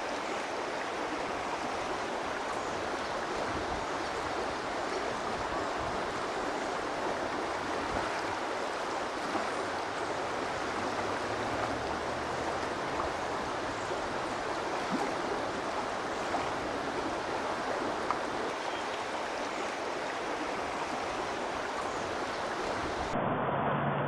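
Water running steadily in a continuous rush, flowing across pavement into a runoff-capture dam. The sound changes abruptly about a second before the end.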